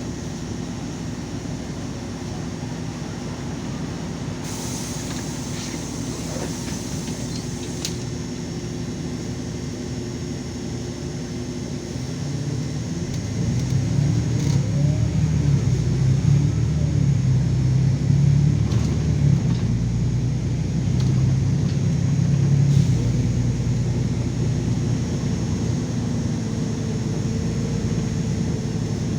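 LiAZ 5292.22 city bus heard from on board: the diesel engine runs steadily, then about twelve seconds in grows louder and deeper as the bus accelerates, easing off a little near the end. A short hiss comes about four seconds in.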